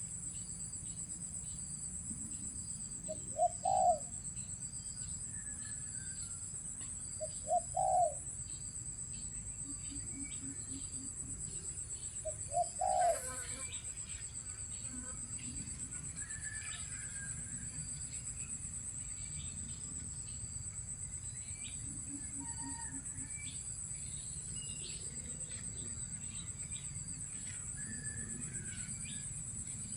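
Spotted doves cooing: short phrases about every four seconds through the first half, with softer, lower coo series later, over a steady high-pitched insect drone.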